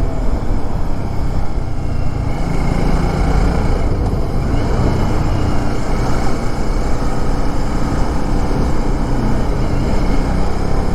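A motorcycle on the move: a steady loud rumble of wind on the action camera's microphone, with road and engine noise underneath.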